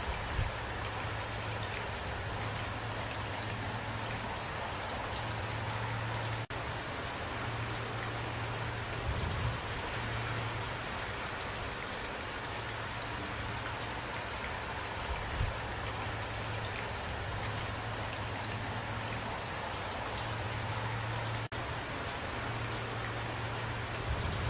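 Steady rain falling, with a few soft low thumps now and then. The sound briefly cuts out twice.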